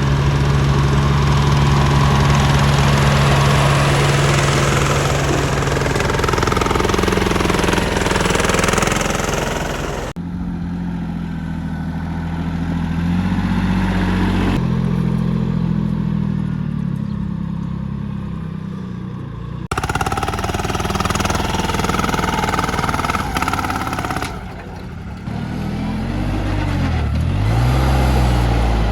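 Small tractor's diesel engine running steadily, the sound changing abruptly twice, with the engine speed rising and falling near the end.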